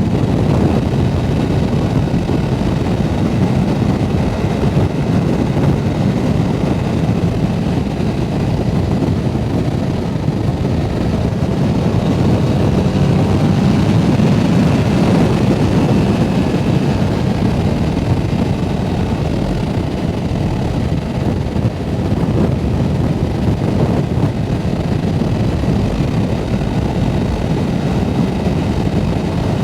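Motorcycle at riding speed: heavy wind rush on the microphone over the Yamaha R7's parallel-twin engine running steadily, swelling a little near the middle.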